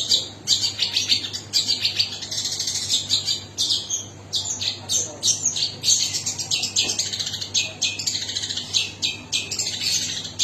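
Long-tailed shrike (cendet) singing: rapid runs of high, chattering notes in phrases broken by short pauses.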